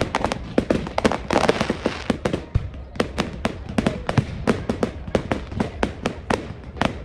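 Fireworks going off in quick succession: a dense string of sharp cracks and bangs, several each second.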